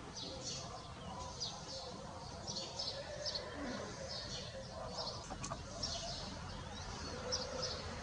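Small birds chirping in quick, irregular short high calls, several a second, over a faint steady hum.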